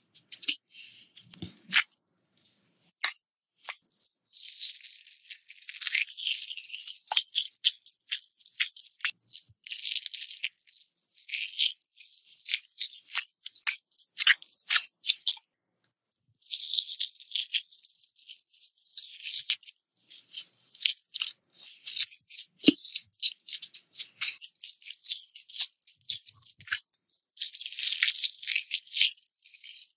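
Close-miked crunching and chewing of crisp food: dense crackling bursts full of sharp clicks, broken by two short pauses, about three seconds in and again near the middle.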